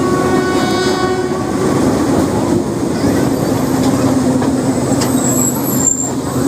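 Train horn sounding for about a second and a half at the start, over the steady low rumble of a moving train.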